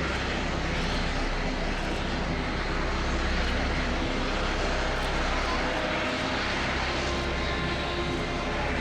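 Military helicopters flying overhead: steady turbine and rotor noise that holds without a break.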